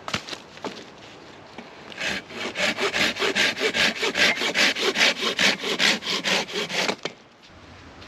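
Hand saw cutting through wood in quick, even back-and-forth strokes, about five a second, starting about two seconds in and stopping abruptly near the end, after a few light knocks.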